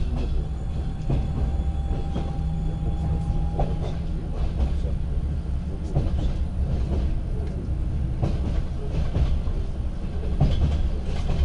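Passenger train running, heard from inside a carriage: a steady low rumble of wheels on rails, with irregular clicks as the wheels pass rail joints. A faint steady whine sounds for the first few seconds.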